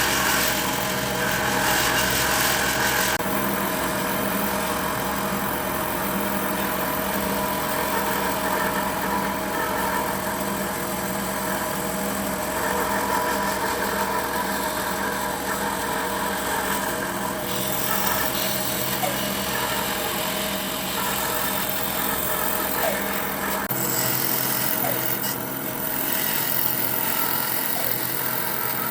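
A power tool's motor running steadily through wood work, its sound shifting a few times as the work changes.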